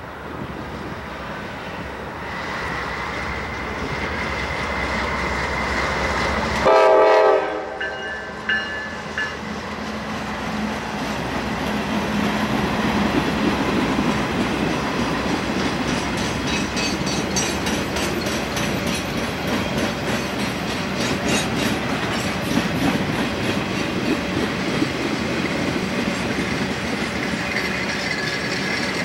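A GE C44-9W diesel freight locomotive rumbles past and gives one short, loud horn blast about seven seconds in, followed by two brief toots. After that, a long string of loaded rail-carrying flatcars rolls by, their wheels clicking rhythmically over the rail joints.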